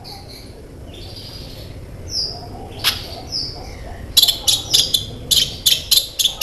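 Brown-throated sunbird (kolibri ninja) singing: a few scattered high whistles and chirps, then from about four seconds in a fast run of sharp, high chirps.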